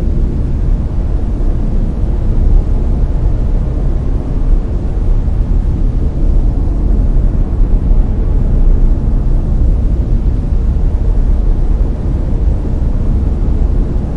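Layered brown noise: a steady, even, deep hiss with most of its energy in the low end and little in the highs.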